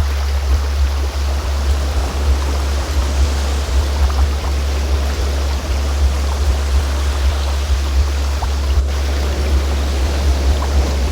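A steady deep tone, a sound-healing frequency track, over the steady rushing of a flowing stream.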